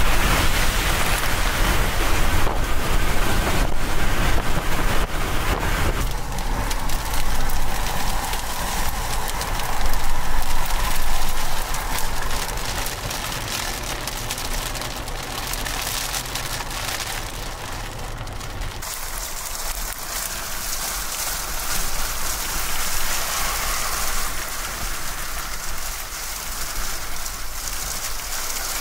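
Heavy rain and wind noise of a severe thunderstorm. The sound shifts abruptly about six seconds in and again about two-thirds of the way through, and is quieter after the second change.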